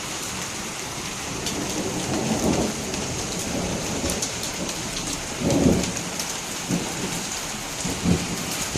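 Torrential rain pouring down steadily, with a few deeper swells or rumbles at about two, five and a half and eight seconds in.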